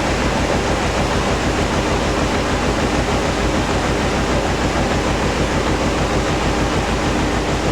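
Hoover DynamicNEXT washing machine spinning its wool load, a loud steady whir with a constant hum. The drum is running with a very unbalanced load and the machine is shaking.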